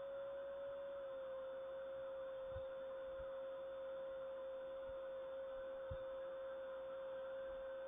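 A steady single-pitched hum that dips slightly in pitch about a second in, over a faint hiss, with a few soft low thumps.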